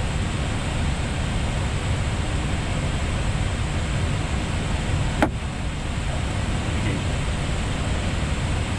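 Steady rushing cockpit noise of an Airbus A320neo in flight, with one sharp click about five seconds in.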